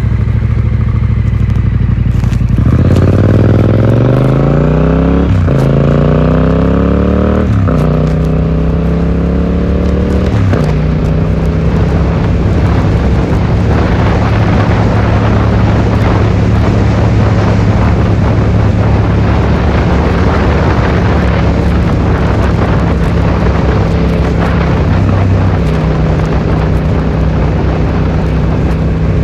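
Yamaha XSR700's parallel-twin engine through an Akrapovic exhaust, accelerating hard with the pitch rising and dropping at three upshifts about 5, 7.5 and 10.5 seconds in, then holding a steady cruise under heavy wind noise. Heard muffled, from a phone in the rider's pocket.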